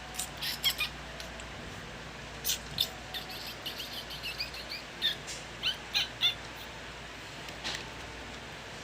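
Baby birds chirping: short, high begging calls in quick bursts, a few at first, then a longer run of them, then one more near the end, as the nestlings beg to be fed.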